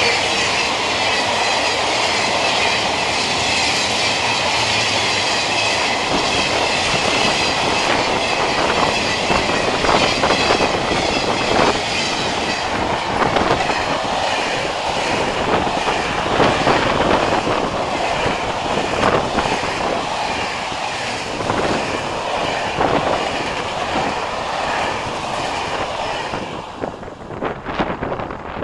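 Long freight train of flat wagons rolling past at speed: a steady rush of steel wheels on rail with repeated clatter over the rail joints. The rush is strongest in the first half and dies away about two seconds before the end.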